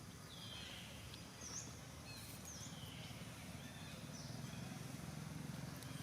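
Faint outdoor background with a steady low hum and a few bird calls: one falling call near the start, then short high chirps over the next couple of seconds.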